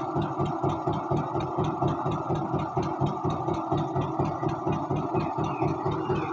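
Tractor engine running steadily with an even pulsing beat, about five pulses a second.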